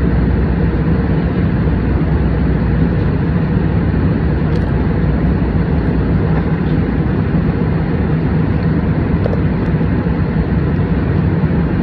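Steady drone of an airliner cabin in flight, engine and airflow noise with no change, with a few faint light clicks.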